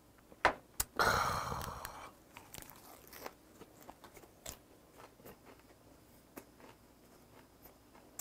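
A person biting into and chewing a lettuce wrap (ssam) with grilled pork belly. There is a loud crunch about a second in that fades over about a second, then quieter chewing with scattered small mouth clicks.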